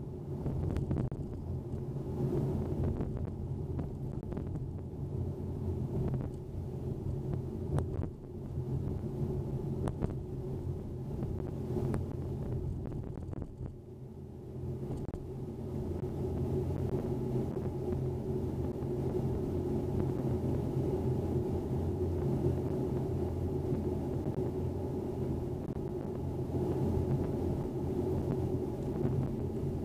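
2010 Acura TSX's 2.4-litre K24 four-cylinder with a CT-Engineering Icebox intake, heard from inside the cabin while driving: a steady low drone with road noise. It dips briefly about halfway through, then climbs back and holds steady.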